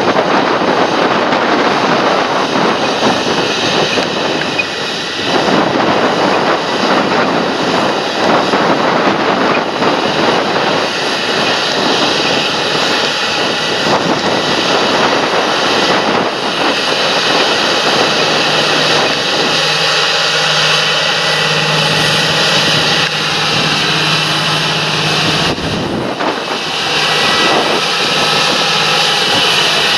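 Large John Deere tractor working in the field: a loud, steady engine and machinery noise, with a low hum joining in for a few seconds past the middle.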